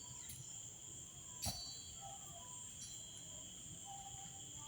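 Faint, steady, high-pitched chirring of insects, with a single sharp click about one and a half seconds in.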